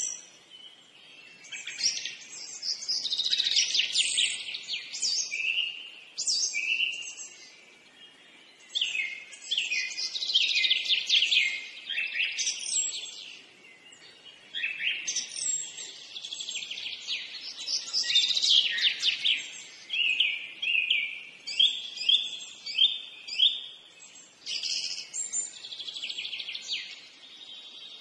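Birds chirping and singing: many quick high chirps and rapid runs of notes, coming in bursts of a few seconds with short pauses between.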